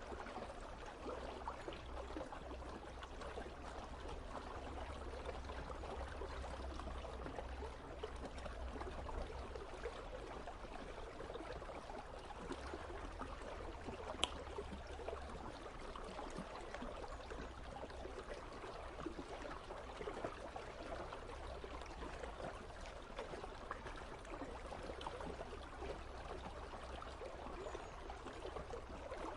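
An icy river flowing, a steady rushing and babbling of water, with a single sharp click about halfway through.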